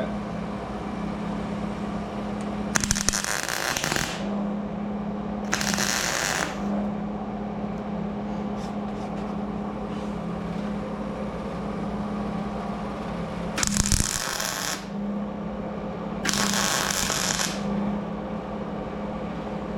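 Welder laying four short tack welds on sheet-metal door panel, each arc crackling for about a second, the first two a few seconds apart and the last two near the end. A steady low hum runs underneath.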